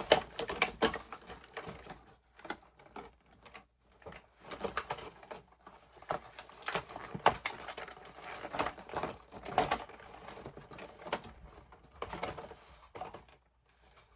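Doll packaging being handled and pulled apart to free the doll: irregular clicks, taps and crinkling rustles that stop near the end.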